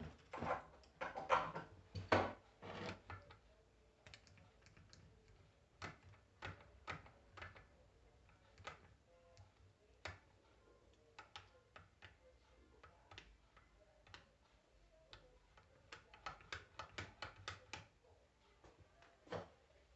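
Scattered light clicks and taps, like small metal parts and hand tools being handled on a workbench. There are several sharper knocks in the first three seconds, a run of quick clicks about 16 to 18 seconds in, and one knock near the end.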